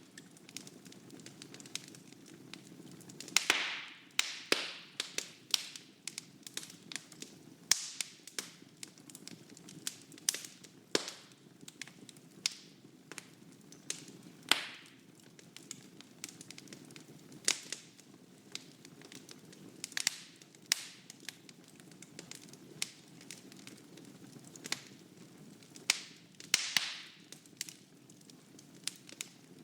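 Fireplace fire crackling, with irregular sharp pops over a steady low rumble; a few louder pops trail off in a short hiss.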